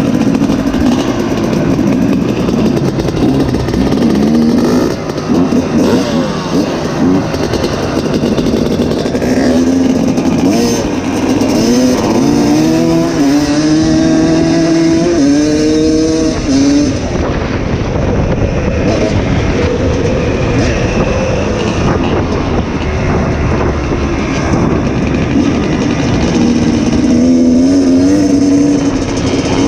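Two-stroke dirt bike engine ridden hard, the revs rising and dropping again and again as it accelerates through the gears, with the clearest climbing runs in the middle and near the end.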